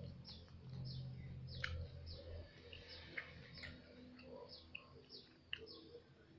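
A bird chirping over and over, short falling chirps about twice a second, faint, with a few sharp clicks mixed in and a low hum that fades out about two and a half seconds in.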